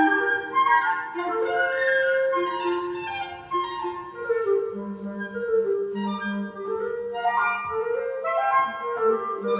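Flute and two clarinets (in C and B-flat) playing a woodwind trio: several quick melodic lines weave over one another, and about halfway through a low clarinet part comes in with repeated held low notes beneath them.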